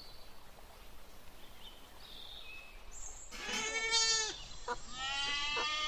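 An animal calling twice in long, drawn-out cries, the first about halfway through and lasting about a second, the second starting near the end. Before them there is only a faint outdoor hush with a few small chirps.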